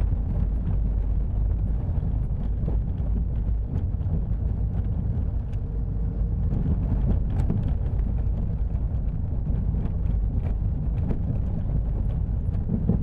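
Car rolling slowly while being maneuvered, a steady low rumble with a few faint scattered knocks from the front suspension. The knocking is typical of play in a suspension joint, here a worn, loose ball joint on the front right.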